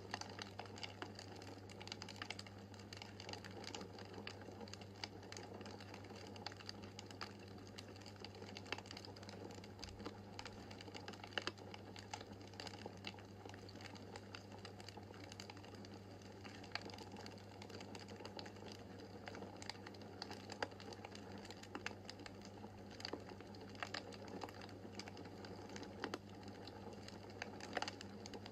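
Wood fire crackling in a fireplace, with many small irregular pops and snaps over a low steady hum.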